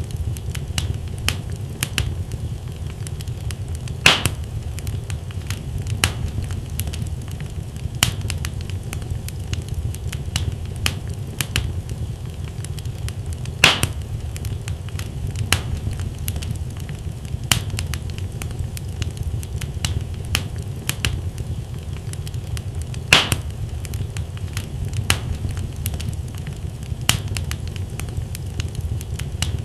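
Wood fire burning in a fireplace: a steady low rumble of flames with frequent sharp crackles and pops from the logs, a few louder pops about 4, 14 and 23 seconds in.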